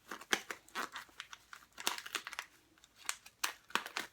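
A small bag of ground coffee crinkling in the hands, a run of irregular crackles as it is handled.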